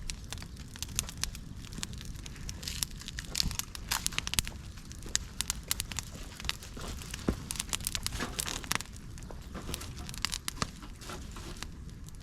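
Fire of dry bamboo, twigs and leaves crackling in a fire stand, with irregular sharp pops and snaps over a low rumble.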